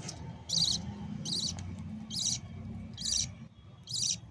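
Budgie chick making short, high, wavering begging calls, five in a row a little under a second apart, as it is fed.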